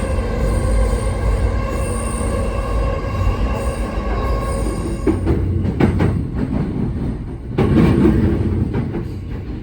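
Electric train running. A steady whine in several pitches fills the first half, then gives way to rumbling and knocking from the wheels on the track.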